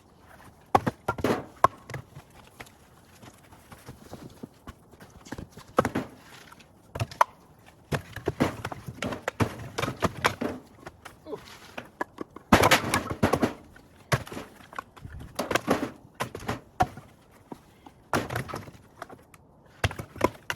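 Split firewood being handled and stacked: pieces knocking and clattering against one another in irregular clusters every couple of seconds.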